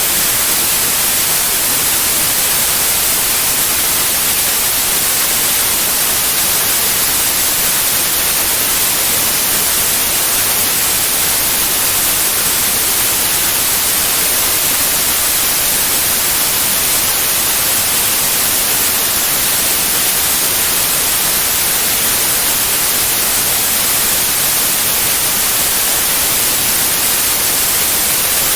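Steady white noise: an even, unbroken hiss, strongest in the highs, that does not change.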